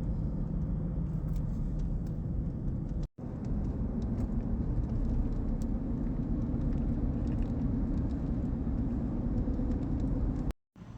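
Car driving, heard from inside the cabin: a steady low rumble of road and engine noise. The sound cuts out completely for a moment about three seconds in and again near the end.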